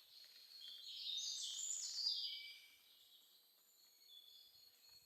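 A songbird sings one phrase of quick high notes that climb and then drop, lasting about two seconds and starting about a second in, over faint woodland background noise.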